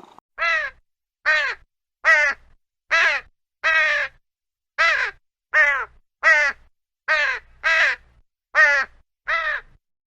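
A bird calling: twelve short calls in a row, each falling in pitch, spaced roughly a second apart with a few quicker pairs.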